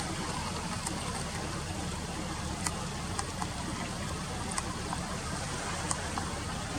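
Steady rushing of a flowing river, with several brief sharp ticks scattered through it.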